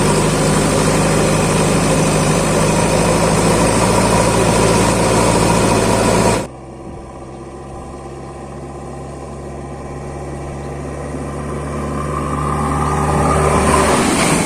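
Backhoe loader's diesel engine running steadily. About six seconds in, the sound drops abruptly to a quieter steady engine hum, which slowly grows louder.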